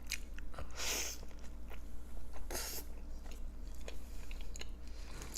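Close-miked eating sounds: a person chewing mouthfuls of burrito and tortilla chips, with wet mouth clicks throughout and two louder crunching sounds, about a second in and again at two and a half seconds.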